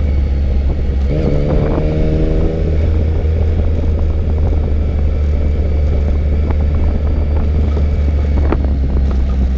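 Motorcycle on the move, heard from the rider's helmet or bike-mounted microphone: a steady low rumble of engine and wind buffeting the mic. Near the start a steady pitched drone holds for about a second and a half.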